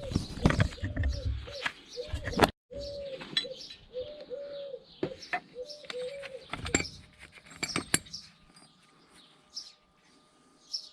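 A dove cooing over and over, a run of short rounded coos, with several sharp metallic clinks and knocks of tools on metal. The coos fade out about seven seconds in.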